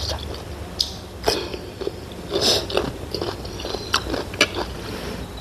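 A person chewing and biting food, with irregular mouth clicks and smacks.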